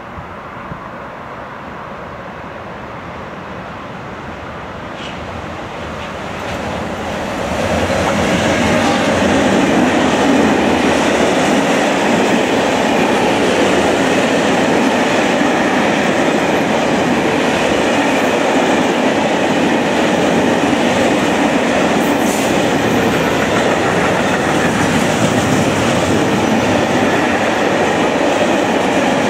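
Freight train of covered hopper (silo) wagons, hauled by a Bombardier Traxx BR 186 electric locomotive, approaching and then rolling past close by. The noise swells over the first seven or eight seconds, then holds as a steady rolling of wheels on rail.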